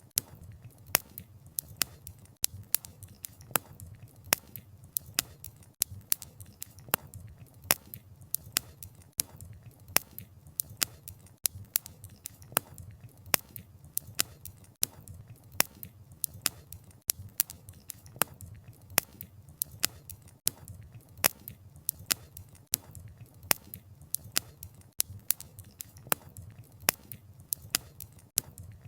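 Campfire crackling: wood popping and snapping in quick irregular clicks, several a second, over a soft low rumble of the flames.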